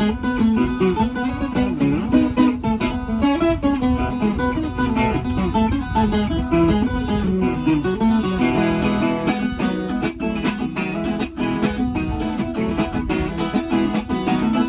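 Viola caipira, the Brazilian ten-string folk guitar, played as a solo instrumental: a continuous run of plucked notes and chords.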